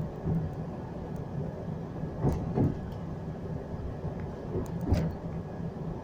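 Moving train heard from inside the carriage: a steady low running rumble and hum, with a few louder clunks about two and a half seconds in and again near five seconds.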